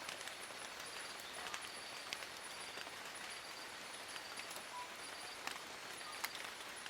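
Steady rain in a forest, with a constant hiss and many separate drops and drips clicking on leaves, a few louder taps standing out. A thin high-pitched trill keeps sounding in short repeated pulses over the rain.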